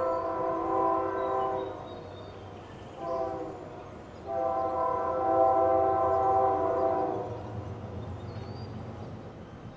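Diesel locomotive's multi-chime air horn sounding a long blast, a short one and a long one, the pattern of a grade-crossing warning. After it a low rumble of the approaching train rises.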